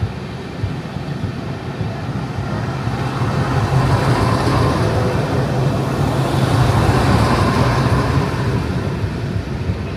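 Passenger train running on the rails, a steady rumble and rattle that swells louder through the middle and then eases off slightly.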